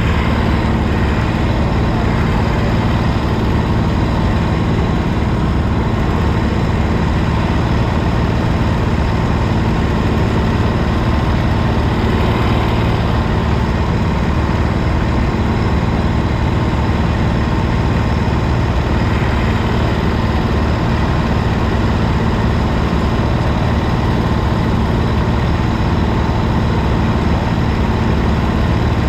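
Kart engine running at a steady, unchanging pitch, loud and close to the microphone.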